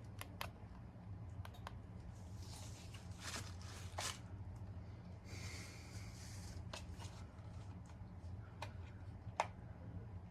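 Monte Carlo Vios ceiling fan running with a low steady hum, over which come scattered sharp clicks and two short rustling hisses.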